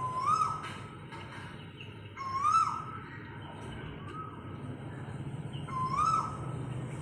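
A bird calling: a short whistled note that rises, holds briefly and drops sharply, given four times about every one and a half to two seconds, over a low steady hum.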